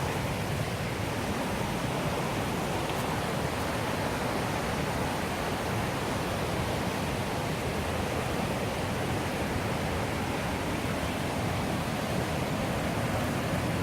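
Steady rushing of river water flowing over rocks, an even roar that holds its level throughout.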